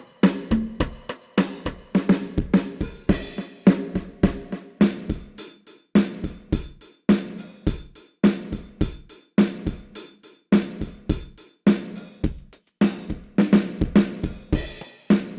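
Sampled drum kit from the Ketron SD90 soundfont playing a steady groove: kick, snare, hi-hat and cymbal hits, some drum strokes with a short pitched ring.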